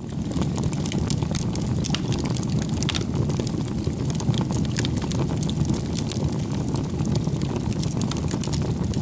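Bonfire burning: a steady low rush of flames with frequent sharp crackles and pops from the burning wood.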